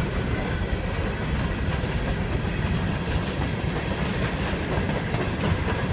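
Coal hopper cars of a freight train rolling past close by: a steady low rumble of steel wheels on rail with clicking over the rail joints, and a few faint high wheel squeals in the middle.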